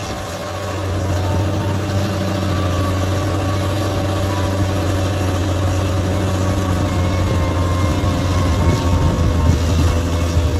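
Large bulldozer's diesel engine running steadily under work, a deep hum with a faint whine above it, getting louder about a second in and then holding.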